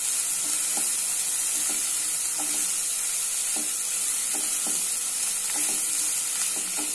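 Ground onion and ginger-garlic paste sizzling in hot oil in a nonstick pan, with a steady hiss, while a spatula stirs and scrapes through it in short strokes about once a second.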